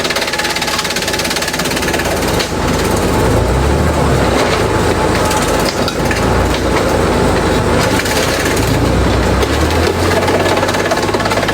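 Industrial bamboo shredder running with its engine under load while bamboo is fed in. A few seconds in, a dense splintering and cracking of wood sets in with a heavy low rumble.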